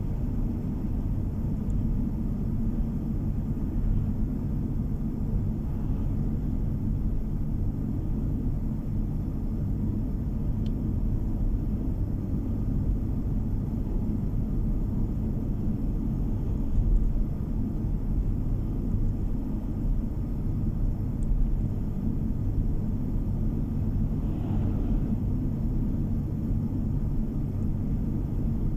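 Steady low rumble of a car on the move: engine and tyre noise heard from inside the car.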